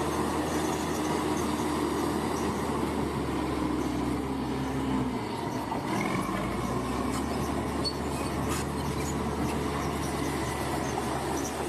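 Bulldozer's diesel engine running steadily under load, with scattered metallic clanks from its steel tracks. The engine note drops about five seconds in and picks up again a second later.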